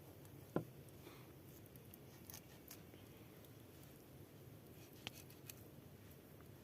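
Near silence with a few faint clicks and taps; the sharpest comes about half a second in and another near five seconds.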